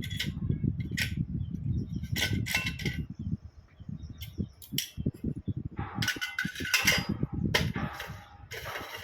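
Metal parts of a multistage high-pressure pump being handled and fitted together: sharp clinks and knocks at irregular intervals, with a longer scraping rattle a little past the middle, over a low rumble.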